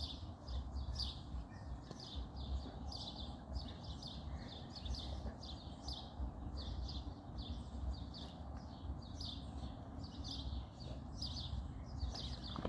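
A bird chirping in a quick, regular run of short high calls, over a steady low rumble.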